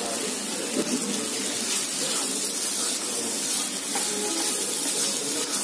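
Flaked fish and masala sizzling in a pan on a gas burner, a steady hiss, with a wooden spatula stirring and turning the mix through the pan in the later part.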